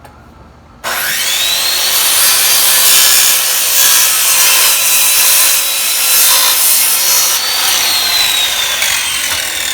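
Old SKIL circular saw with a dull blade starting up about a second in and cutting through a 2x4 with five nails driven into it: a loud rasping cut under a high motor whine that rises as it spins up, holds steady, then drops in pitch near the end as the motor slows.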